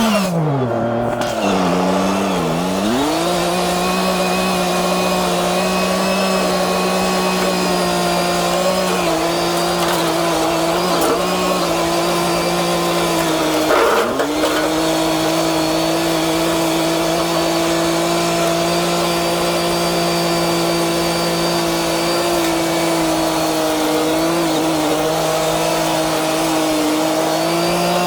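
Kubota L3540 tractor's diesel engine running loud and steady, driving a brush hog mower. Its pitch dips and recovers in the first couple of seconds and again briefly about halfway through, as the engine takes load.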